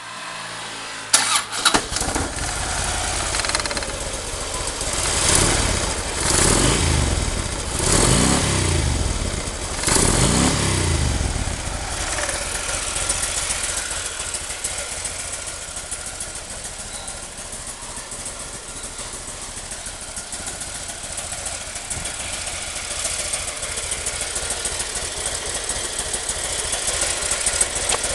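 2009 Harley-Davidson Street Glide's Twin Cam 96 V-twin starting up about a second and a half in. It is revved in four short throttle blips, then settles into a steady idle.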